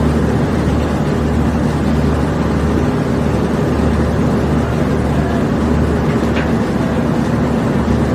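A heavy engine running steadily, a constant low drone under a rushing noise, from the machinery unloading a limestone barge.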